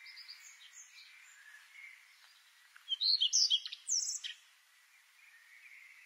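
Birds chirping: faint scattered calls, then a louder run of quick, high chirps about three seconds in, ending with a downward-sweeping note just after four seconds.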